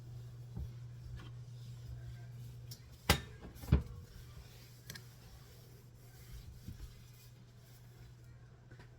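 Two sharp knocks about half a second apart, a little after three seconds in, with a few fainter knocks, over a steady low hum.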